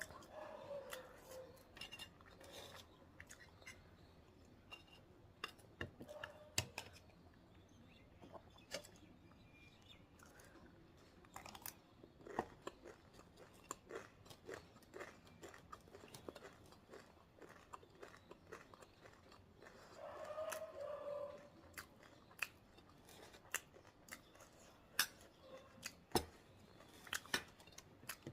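A person eating momo and chatpate, the crunchy Nepali puffed-rice snack, close to the microphone: faint chewing with irregular, scattered crunches and mouth clicks.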